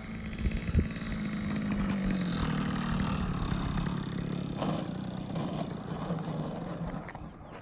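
O.S. GT15 15cc single-cylinder two-stroke gas engine on an RC Piper Cub running steadily at low throttle. A sharp knock comes just under a second in, and the engine sound fades out near the end.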